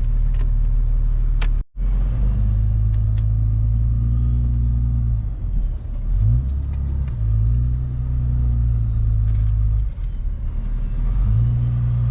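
A motor vehicle's engine running with a steady low drone that drops out suddenly for a moment just before two seconds in, then shifts in pitch a few times.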